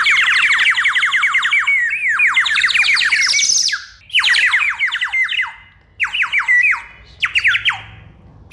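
Toy bird chirping: rapid, high chirps that each sweep downward, about eight a second. They come in a long first burst and then three shorter ones, with brief pauses between.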